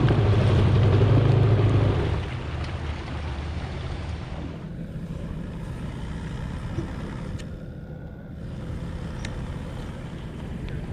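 Kawasaki X2 jet ski's 650 two-stroke engine running, loud for the first two seconds and then easing off to a lower, steady note.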